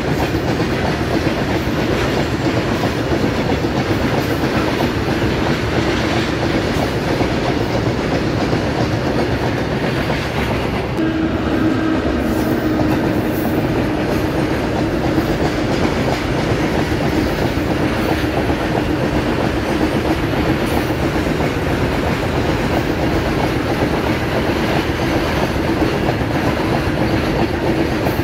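Coal-laden open freight wagons rolling past on the track, a steady, loud run of wheel-and-rail noise. A steady low tone runs underneath and grows stronger about halfway through.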